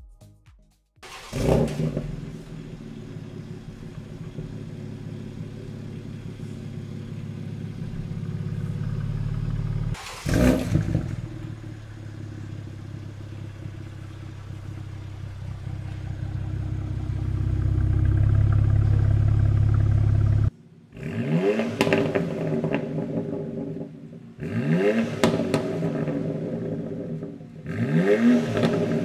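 BMW X3M Competition's twin-turbo straight-six heard through its exhaust: it starts with a loud flare about a second in, settles to idle, and gives one sharp rev blip about ten seconds in. The idle then swells louder before a cut to three short pulls, the engine note rising each time as the car accelerates.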